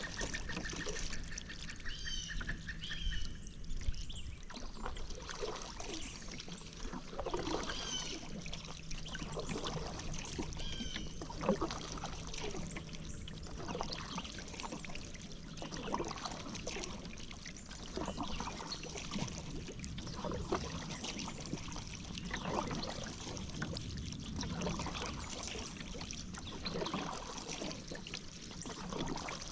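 Paddle strokes dipping and pulling through river water, with water splashing and dripping off the blade every second or two. A few short bird chirps sound over it, and a rapid buzzing trill runs through the first few seconds.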